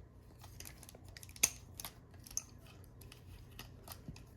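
Plastic parts of a Transformers Sandstorm action figure clicking as they are folded and moved by hand: a few scattered light clicks, with one sharper click about a second and a half in.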